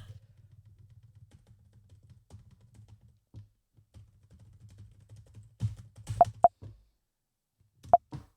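Quiet room with a faint low hum and scattered soft clicks and taps, busier about six seconds in, with a few brief high-pitched blips near the end.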